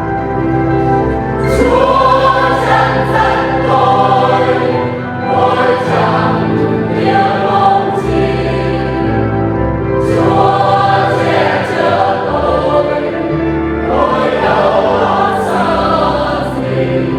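Church choir singing a Vietnamese Catholic communion hymn over a sustained organ accompaniment, in phrases of a few seconds each.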